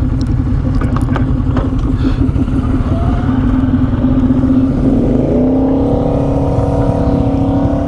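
ATV engine running under way on a trail, its pitch rising about five seconds in and holding higher as the revs pick up.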